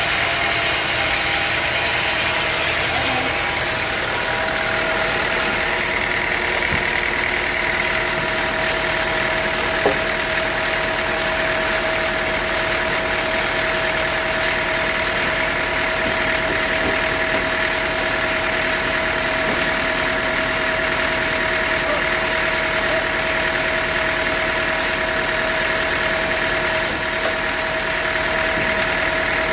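Sawmill machinery running steadily with an engine-like drone and a held tone. There is one sharp knock about ten seconds in.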